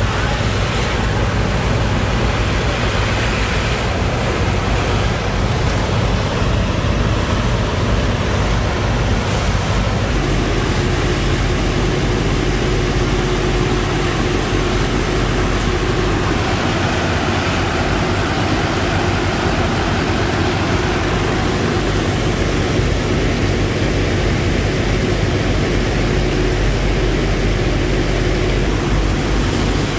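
Sand boat's engine-driven pump running steadily, with a loud rushing noise over the engine; the engine's note changes about ten seconds in.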